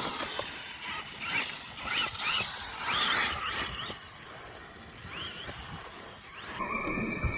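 Arrma Mojave EXB RC truck's electric motor whining, its pitch rising and falling in several quick revs, with a weaker rev about five seconds in.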